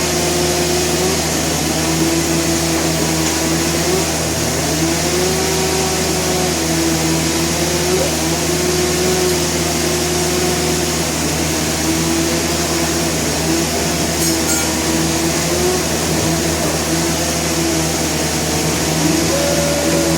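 Sawmill machinery running continuously: a steady engine hum with a higher droning tone that dips and rises several times, as the saw's speed changes under the cut.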